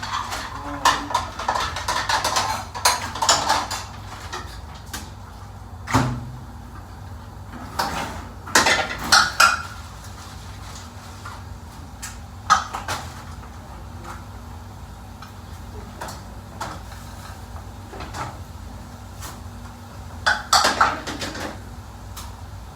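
Kitchen clatter: scattered knocks and clanks of pots, pans, utensils and cupboard doors, coming in short clusters a few seconds apart over a steady low hum.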